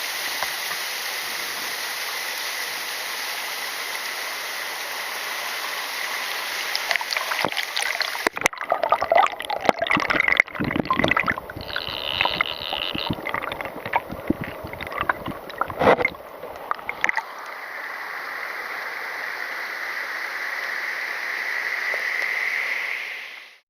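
Water of the Kuhflucht waterfalls rushing steadily. In the middle stretch the sound turns louder and uneven, with many sharp clicks and abrupt breaks. The steady rush then returns and fades out at the end.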